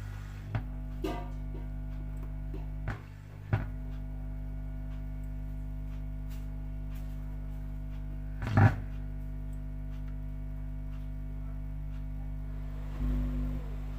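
Audio amplifier's speaker giving out a steady mains hum, a low buzz with many overtones, a fault the repairman traces to the amplifier having no earth connection. Several short clicks and knocks break in, the loudest a little past halfway and a dull thump near the end.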